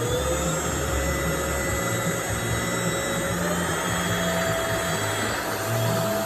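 Wowgo cordless stick vacuum running, a steady motor whine over a rush of air. The whine steps up a little in pitch about three and a half seconds in.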